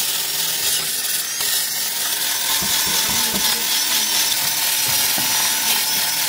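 Loud, continuous harsh hiss of metalwork on a broken steel leaf spring, with a faint wavering high whine through it.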